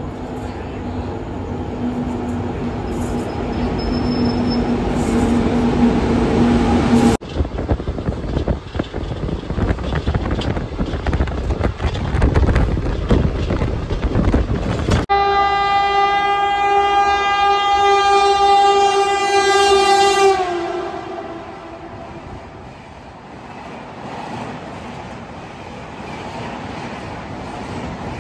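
Train sounds in quick succession. First a locomotive drawing in with a steady hum, then the loud rumble of a moving train on the rails. Then a horn blast of about five seconds whose pitch drops at the end as the train passes, and the train rushing past.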